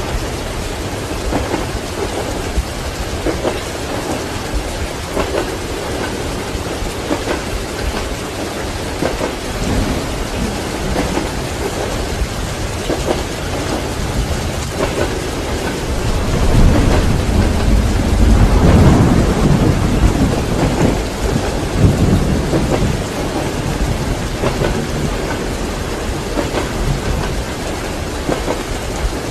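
Steady heavy rain, with a long, deep roll of thunder swelling up a little past halfway and fading again after several seconds.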